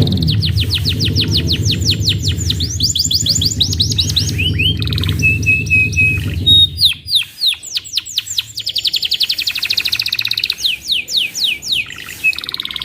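Domestic canary singing in long, rapid trills of quickly repeated falling whistled notes, broken by a short run of steady piping notes partway through. A low steady drone runs beneath the song and stops about seven seconds in.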